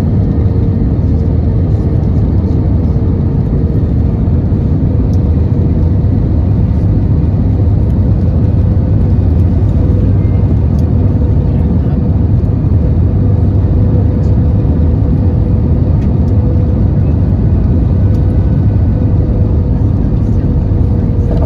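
Steady in-cabin noise of an Airbus A321 in flight: jet engines and rushing airflow in an even, low-heavy rumble with a constant thin hum running through it.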